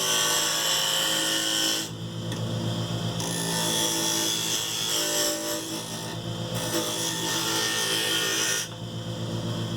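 Wood lathe running with a steady motor hum while a turning tool cuts a spinning laminated wood blank, giving a bright hissing scrape. The cutting eases off briefly about two seconds in and again near the end.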